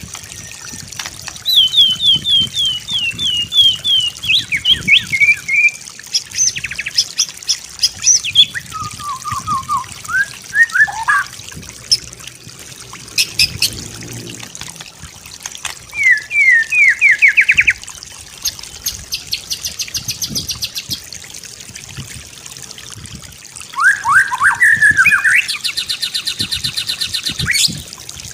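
White-rumped shama (murai batu) singing a varied song: separate phrases of quick repeated whistled notes, fast rattles and trills, with short pauses between them.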